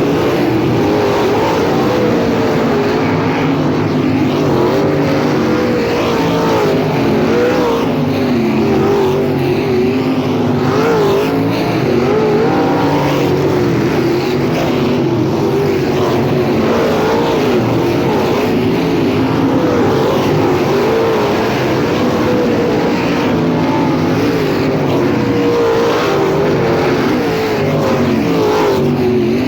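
Several dirt-track sprint car V8 engines running together at racing speed, their pitch wavering up and down as they are throttled through the turns and down the straights.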